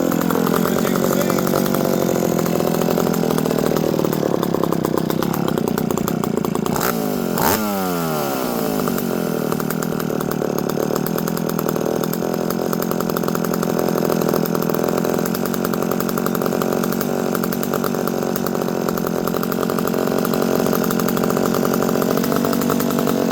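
McCulloch PM 700 two-stroke chainsaw engine running steadily after its carburetor and fuel line repair, with a brief change in engine speed about seven seconds in.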